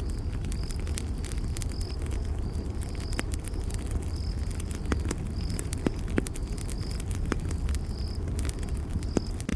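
Campfire crackling, with sharp pops scattered over a low steady rumble; the loudest pops come around the middle and near the end. A cricket chirps steadily, about once or twice a second.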